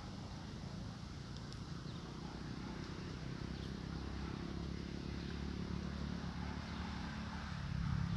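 Low engine hum of a motor vehicle, slowly growing louder.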